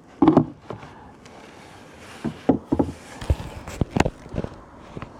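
A run of light knocks and clicks from things being handled, one every half second or so, with a short low thump at the start.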